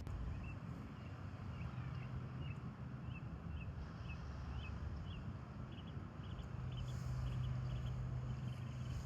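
A bird calling a rapid series of short chirps, about two to three a second, for most of the first seven seconds. A low steady hum runs underneath and grows louder about two-thirds of the way through.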